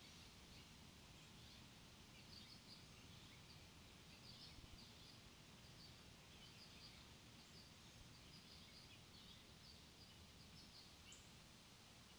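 Faint, short high-pitched bird chirps, many of them in quick scattered clusters, over a quiet steady outdoor background hiss.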